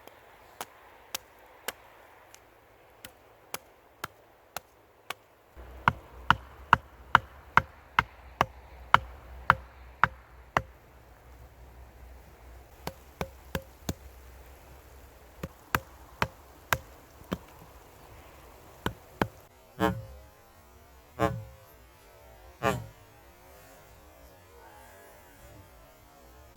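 Repeated chopping blows on wood, a sharp knock each time, coming in runs of about two a second. Near the end come three heavier, duller thuds.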